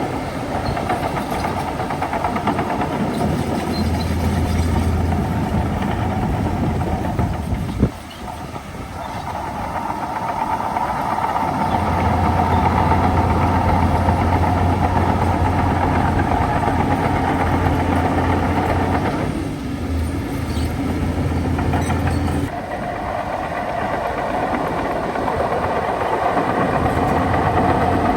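Bulldozer's diesel engine running continuously with a steady low drone, with one sharp knock about a third of the way in and an abrupt shift in the sound about three-quarters through.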